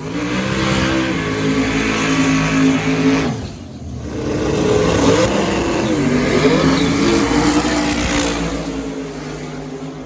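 Drag race car engine running at high revs, with a brief drop about three and a half seconds in, then revving up and down again before fading.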